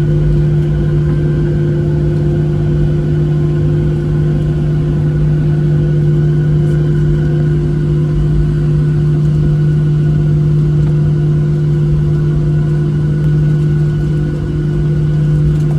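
Airliner's jet engines running steadily at taxi power, heard from inside the passenger cabin as an even hum with several held tones above it.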